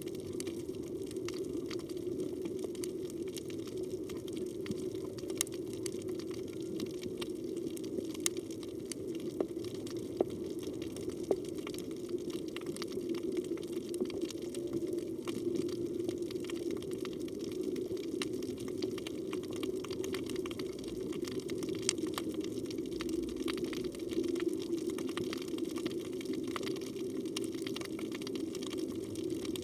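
Underwater ambience: a steady, low rush of moving water with many scattered sharp clicks.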